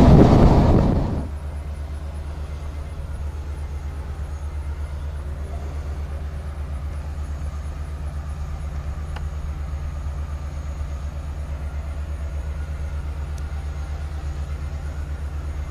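Steady low rumble of a running vehicle engine with an even fine pulse, after a loud rush of wind on the microphone dies away about a second in.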